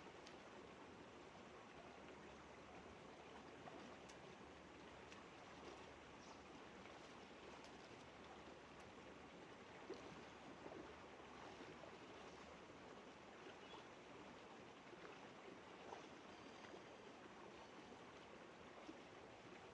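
Faint, steady rush of running water, like a small stream, with a few light clicks.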